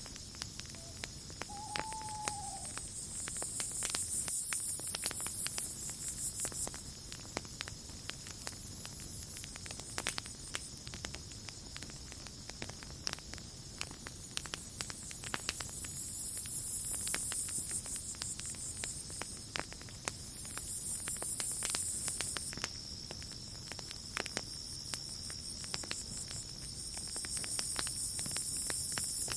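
Campfire crackling with irregular pops over night insects; crickets chirr in swelling waves and one insect holds a steady high trill.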